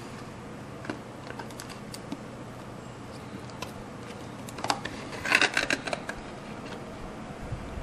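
Hand work on a craft model at a table: scattered light clicks and taps of the material being handled, with a louder burst of crackling clicks about five seconds in.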